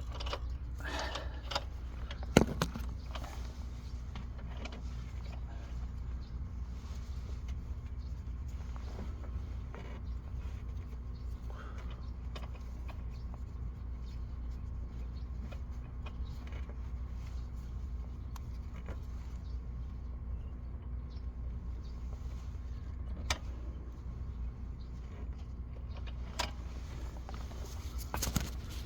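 A steady low mechanical hum, with a few light clicks and taps; the sharpest click comes about two seconds in.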